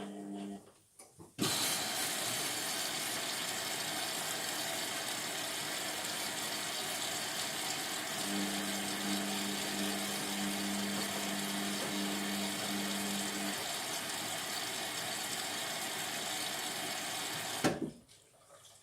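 Indesit MTWC71252WUK washing machine filling: water rushing in through the inlet valve, starting abruptly and cutting off suddenly near the end. The drum motor hums steadily for about five seconds midway.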